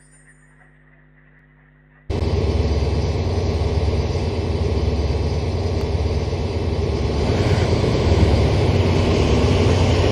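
HO-scale model train running, a loud steady rumble of engine and rolling stock that starts abruptly about two seconds in after a faint hum.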